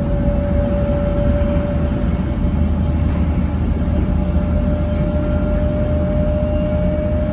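700 series Shinkansen train running steadily at speed: a constant low rumble with a steady whine held at one pitch.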